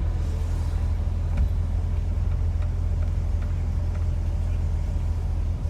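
BMW E30 sedan's straight-six engine running at low speed with a steady low drone, heard from inside the car as it creeps along.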